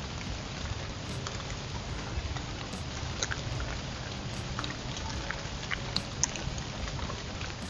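Steady rain hiss with scattered sharp ticks of single drops, and a low rumble underneath.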